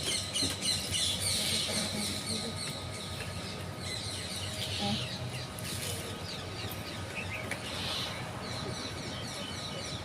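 A flock of small birds chirping, many short high calls overlapping continuously.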